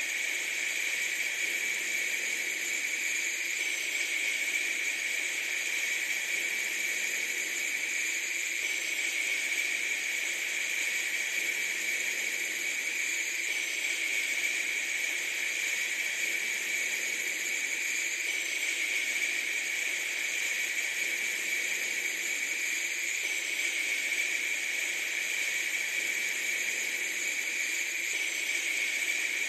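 Steady, unchanging hiss, strongest in a high band, with no distinct events.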